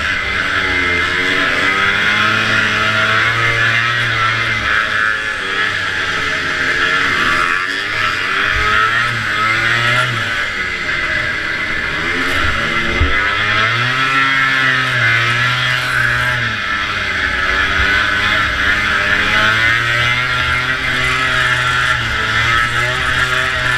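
Vintage two-stroke snowmobile engine running hard in a race, its pitch dropping and climbing again several times as the throttle is eased and reopened, over steady rushing wind and track noise.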